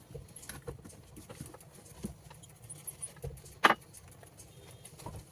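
Scattered light clicks and taps of small hard parts being handled during a 20 mm rotary hammer piston repair, with one sharp click about two-thirds of the way through.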